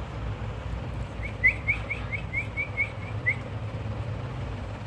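Pet parrot chirping: a quick run of about ten short, rising chirps, starting about a second in and lasting some two seconds.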